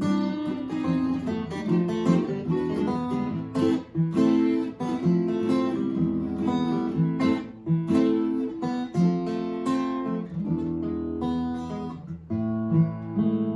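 Two guitars playing an instrumental duet, a lead guitar picking the melody over a backup guitar, with quick plucked notes throughout.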